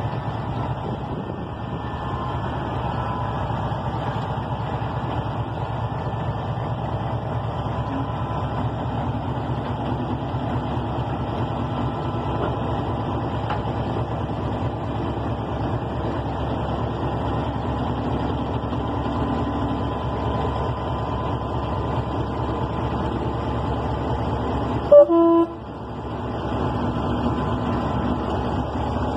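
A freight train rolling past at close range: a steady rumble of wagons on the rails, with the DF7G-C diesel locomotive drawing alongside near the end. About 25 seconds in, a short horn toot sounds once.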